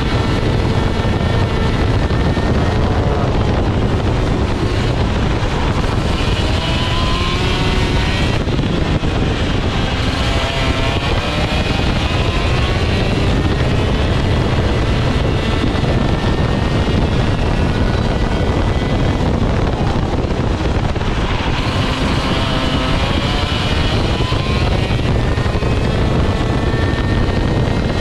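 Vortex ROK GP 125cc two-stroke kart engine heard on board at racing speed, its pitch rising and falling repeatedly as it revs out on the straights and drops off into the corners.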